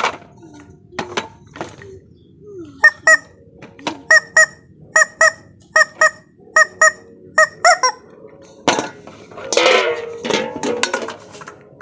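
A run of about a dozen short, nasal honks, goose-like and mostly in quick pairs, a little under one a second. A burst of crackling rustle follows near the end.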